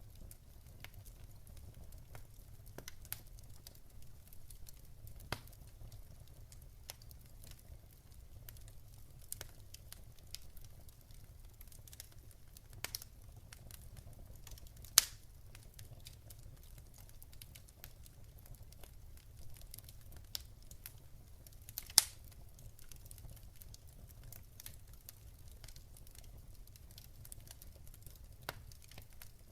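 Wood fire crackling: irregular sharp pops and ticks over a low steady rumble, with two louder pops, one about halfway through and one about three-quarters of the way through.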